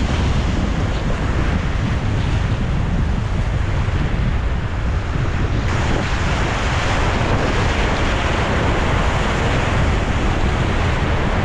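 Whitewater rapids: a loud, steady rush of churning river water, heavy in the low end, with wind buffeting the action camera's microphone. It starts abruptly at a cut.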